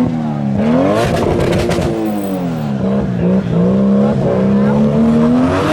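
Car engine revving hard, its pitch rising and falling several times, with a short burst of crackles about a second in.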